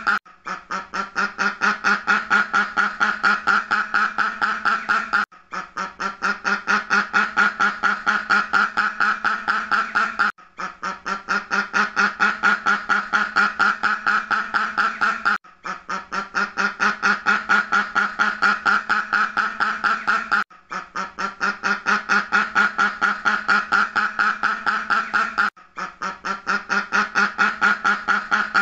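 Duck quacking: a fast, unbroken run of quacks, several a second. The run breaks off briefly and starts again about every five seconds, as a looped recording.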